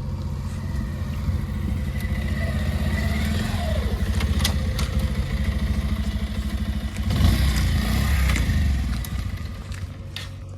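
Backhoe loader's diesel engine running under working load, growing louder about seven seconds in for a second or two and easing off near the end. A few sharp metallic clanks sound over it.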